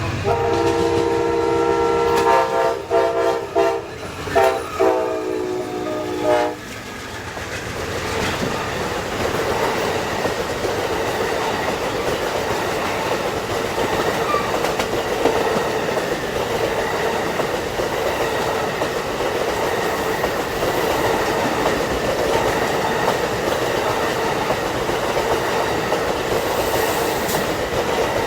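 Amtrak Auto Train locomotive horn sounding a chord in several blasts, a long one and then shorter ones, over the first six seconds or so. The long train then runs past with a steady rumble and wheels clacking over the rail joints.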